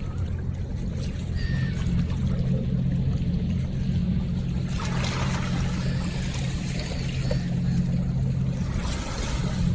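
River water splashing in two short bursts, about five and nine seconds in, over a steady low hum.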